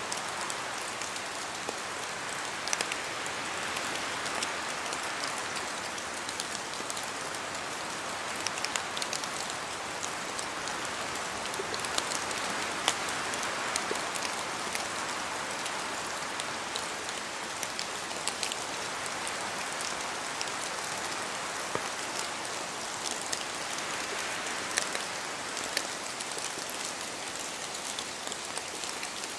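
Steady rain falling through forest trees, a dense hiss of drops on leaves with many sharp individual drips, swelling and easing slowly as gusts of wind pass through.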